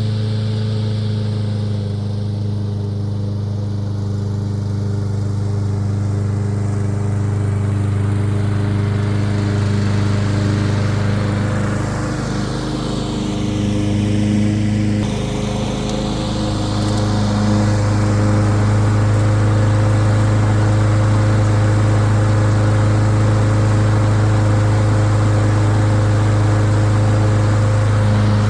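Masport Rotarola walk-behind lawn mower's engine running steadily under load while cutting long grass, with a brief waver in its note about halfway through.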